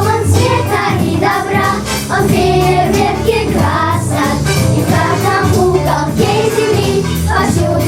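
Children's choir singing a lively song in unison over instrumental accompaniment with a steady bass line.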